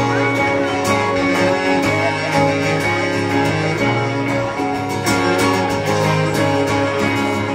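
Live acoustic folk band playing an instrumental passage without vocals, a strummed guitar to the fore over sustained chords.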